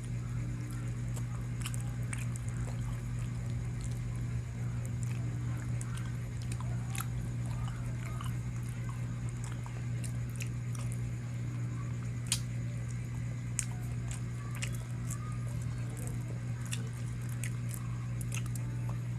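Close-miked eating sounds: a person chewing and biting into chicken, with small wet smacks and sharp clicks scattered throughout, the sharpest about twelve seconds in. A steady low hum runs underneath.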